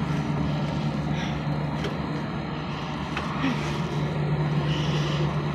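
Steady low hum over even background noise, with a few faint clicks.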